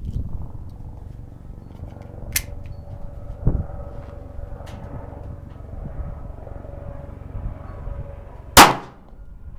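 A single shot from a Kel-Tec P3AT .380 pocket pistol near the end, sharp and loud with a short echo. It is preceded by a faint click and a low thump.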